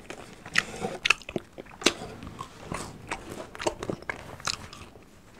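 A man biting into and chewing french fries close to the microphone: a string of irregular soft crunches, several a second.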